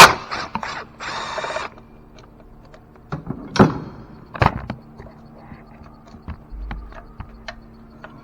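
Hand ratchet clicking in a short run about a second in as a 10 mm bolt is loosened, with sharp metallic clinks and knocks of the socket and tools before and after.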